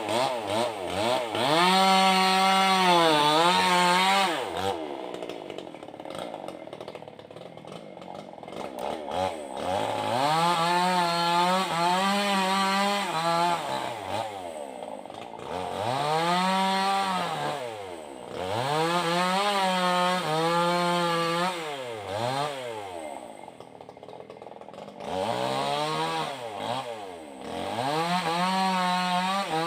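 Maestro two-stroke chainsaw with a Stihl chain cutting wood at high revs. The engine pitch sags and recovers again and again as the chain bites, and it drops back to quieter, lower running several times between cuts.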